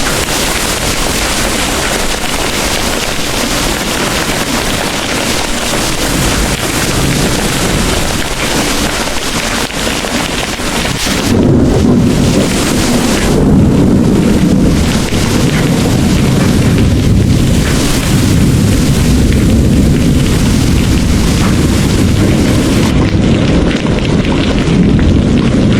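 Heavy rain pouring in a steady hiss. About eleven seconds in, a deep rumble of thunder builds and rolls on under the rain.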